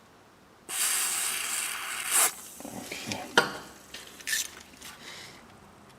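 Aerosol can of rust penetrant spraying onto a rusty bolt with a hiss of about a second and a half, followed by a few light clicks and scrapes.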